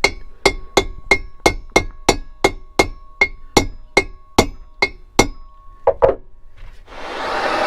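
Light, even hammer taps, about three a second, with a short metallic ring, as a wedge is eased in between the cooling fins of a Suzuki T500 cylinder to gradually push a bent fin back out without snapping it. After a short pause and two more taps, a steady rushing blower noise starts near the end as the heat is turned back on.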